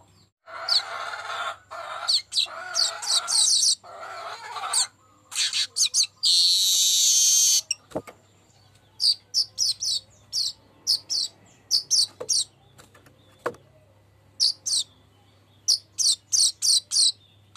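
Streaked weaver singing: a wheezy, chattering song with a long harsh buzz partway through, then runs of short, high ticking notes in quick clusters.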